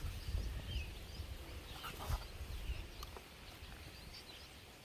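Faint bird chirps scattered over a low rumble, with a couple of soft clicks about two seconds in.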